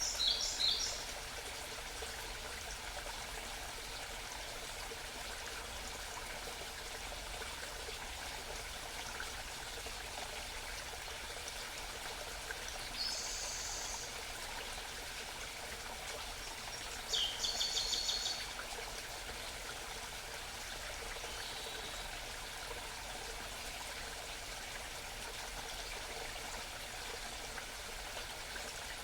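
Small mountain stream babbling steadily. Over it a songbird sings three short bursts of high notes, the last a quick run of repeated notes.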